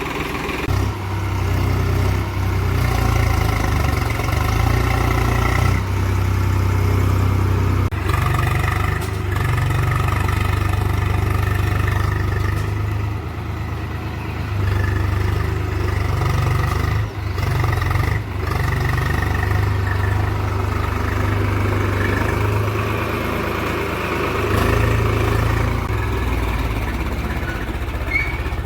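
Tractor diesel engine running steadily under load, with a heavy low drone and a few brief dips in level.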